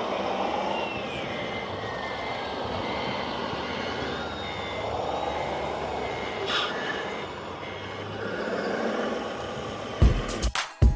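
Radio-controlled model machinery running: electric motors whine up and down in pitch over a steady mechanical hum, while a high reversing beeper sounds in a regular on-off pattern. Music with a sharp beat cuts in near the end.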